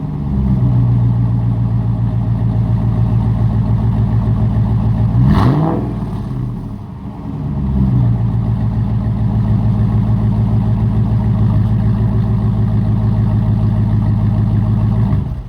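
Straight-piped Hemi V8 of a Ram pickup, no mufflers, running at a steady raised speed. About five seconds in it gives a quick rev, drops back for a moment, then holds steady again until it cuts off suddenly at the end.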